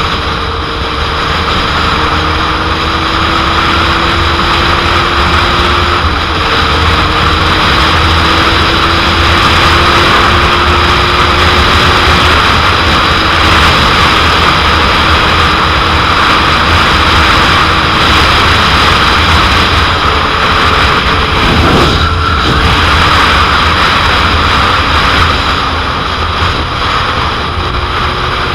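Heavy wind noise on the microphone from a 2001 Suzuki GSX-R750 under way, with the inline-four engine's note faintly underneath, climbing slowly and breaking about six seconds in and again near 22 seconds.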